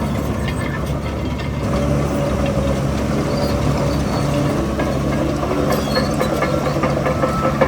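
Heavy diesel earthmoving machinery running steadily, with light metallic clanking and rattling and a sharp clank near the end.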